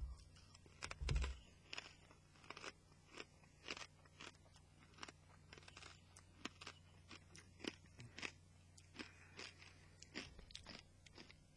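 A person chewing a pork scratching, with a string of faint, irregular crunches about one or two a second. A low steady hum runs underneath.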